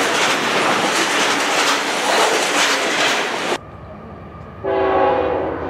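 Freight cars loaded with containers rolling past close by: a loud, steady rush of wheels on rail with clickety-clack, cutting off suddenly about three and a half seconds in. It gives way to the low rumble of a distant locomotive, which sounds a roughly one-second horn blast near the end.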